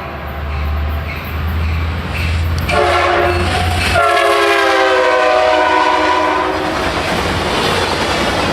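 Amtrak passenger train passing: the locomotive's air horn sounds a short blast and then a long one, falling slightly in pitch as it goes by, over the diesel locomotive's low rumble. After the horn the rumble fades into the clickety-clack of the passenger cars rolling over the rail joints.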